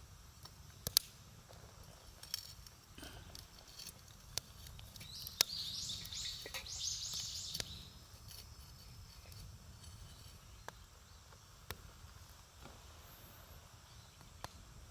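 Wood campfire crackling, with scattered sharp pops over a low steady rumble. A bird sings briefly near the middle.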